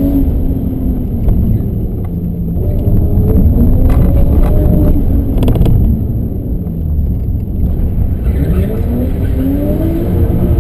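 BMW M5 E34's straight-six engine revving up and down repeatedly under hard driving, heard from inside the cabin. A few short clicks come about four to six seconds in.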